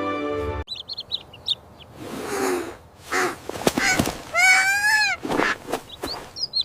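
Background music stops shortly in, giving way to bird sounds. There are quick high chirps, breathy rustling noise and a couple of sharp clicks. A longer call rises and falls near the middle, and more high chirps come near the end.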